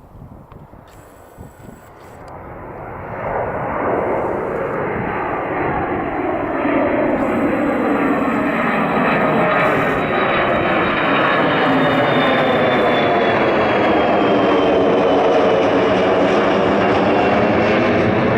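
Boeing KC-135 tanker's four jet engines at takeoff power, growing much louder over the first few seconds and then holding loud. The roar has a sweeping, phasing quality and a high whine that falls slightly in pitch as the jet goes by.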